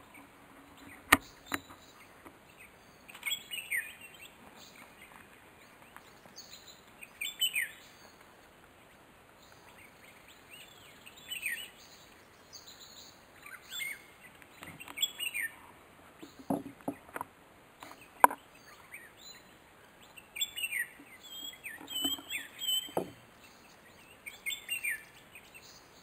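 Wild birds calling in forest: short chirps and quick descending call notes, coming every second or two. A few sharp clicks and some low knocks are scattered among the calls; the loudest clicks come about a second in and about two-thirds of the way through.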